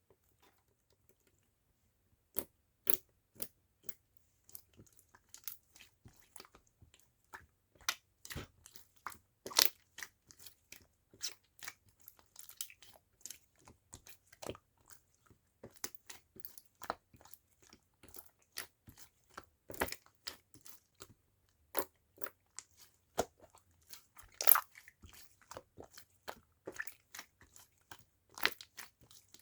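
Purple slime being played with by hand: irregular sharp clicks and pops, several a second, with quieter crackling between, starting about two seconds in.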